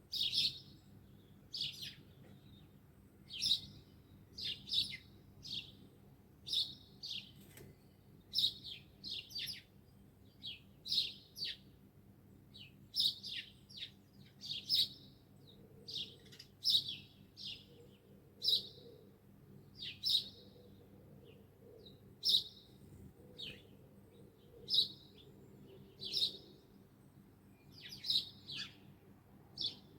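Birds chirping: short, high-pitched chirps, one or two a second, repeating steadily.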